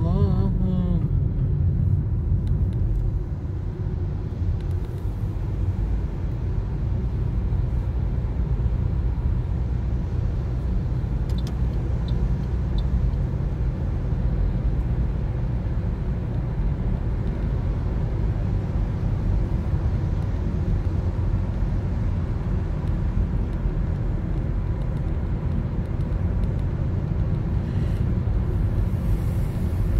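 Steady road noise inside a moving Toyota Corolla's cabin: a low rumble of tyres on the wet road and the engine, unbroken throughout.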